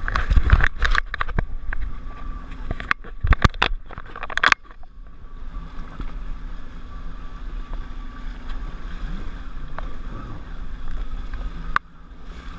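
Jet ski on the water, slowed to a low idle: rough buffeting and knocking noise on the microphone for the first four and a half seconds, then drops suddenly to a steady low engine hum with water lapping.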